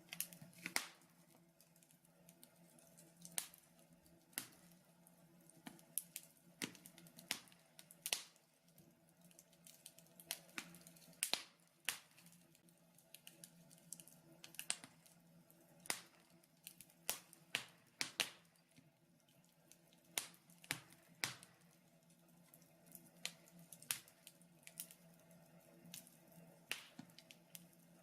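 Wood fire in a fireplace crackling: irregular sharp pops, about one or two a second, over a faint steady hum.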